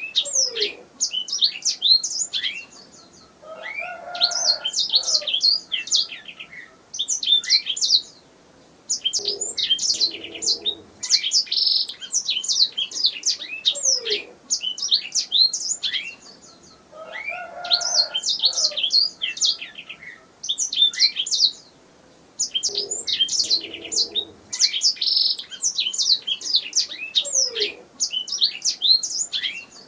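Domestic canary singing: fast phrases of high chirps and trills a few seconds long, broken by short pauses filled with quieter, lower warbling notes.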